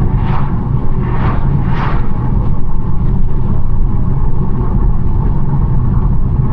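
BMW 1 Series driving along at speed: a steady low rumble of engine and tyre noise, with four brief hissing swells in the first two seconds.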